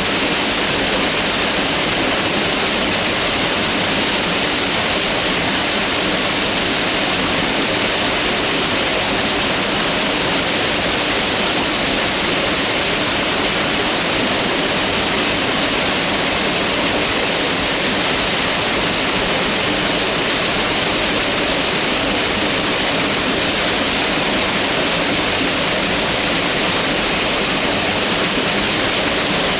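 Mountain river flowing, a steady full rush of water without let-up.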